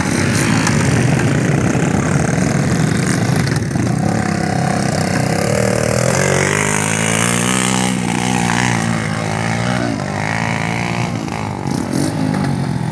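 Dirt bike engine running loud, its revs rising and falling.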